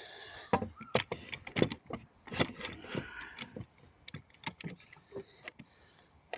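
Irregular knocks, clicks and short scrapes of wood and metal from denailing pallet planks with hand tools, busiest in the first few seconds and sparser after.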